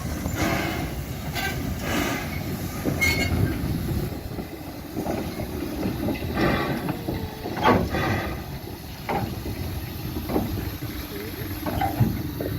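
Train at a railway turntable: a continuous low rumble with scattered short knocks, and people talking now and then.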